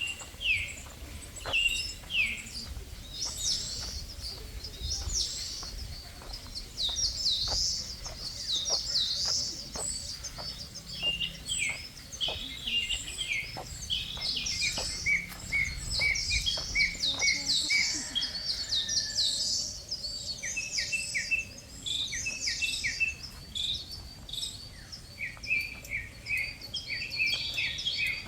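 Many birds chirping together: a dense, overlapping chorus of short, quick high calls. A low rumble runs underneath for the first two-thirds and stops about eighteen seconds in.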